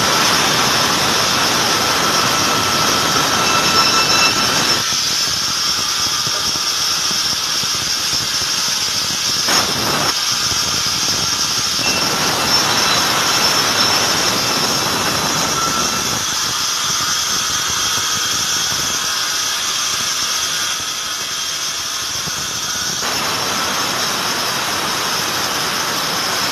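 Sawmill blade running with a steady high-pitched squeal. Stretches of fuller, louder cutting noise as it goes through wood alternate with thinner stretches where only the whine remains.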